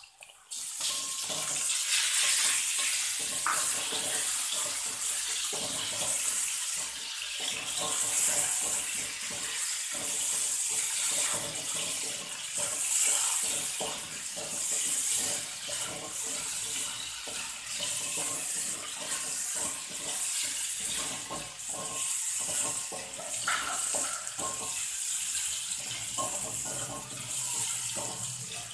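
Shallots and chicken stir-frying in hot oil in a steel wok: a steady, hissing sizzle that starts suddenly about half a second in, with the scrape and clatter of a wooden spatula against the wok.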